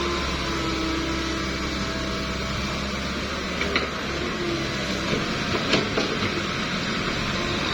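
A steady engine hum with a couple of light clicks, about four and six seconds in.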